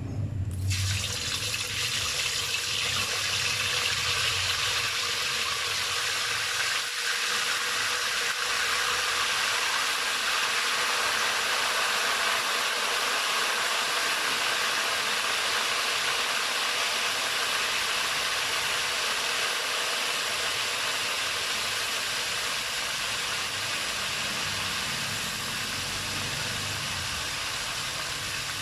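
Chicken pieces sizzling in hot oil as they fry: a dense, steady sizzle that starts abruptly about half a second in and eases slightly near the end.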